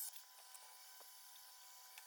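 Near silence: faint hiss with a couple of small, faint clicks.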